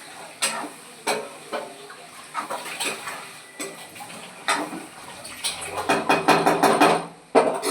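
Kitchen utensils and dishes clattering: irregular sharp clinks and knocks, coming thick and fast for a stretch near the end, closed by one loud knock.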